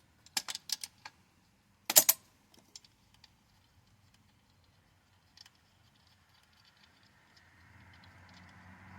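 Metal tools and parts clicking and clinking during work on a pit bike's chain. There is a quick run of clicks at the start and one louder clank about two seconds in, then a few faint ticks. A faint, steadily rising noise comes in near the end.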